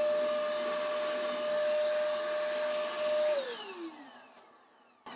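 Small electric motor tool with a fan, such as a handheld vacuum, blower or heat gun, running at a steady high whine with a rushing of air. About three seconds in it is switched off and winds down, its pitch falling as it fades away.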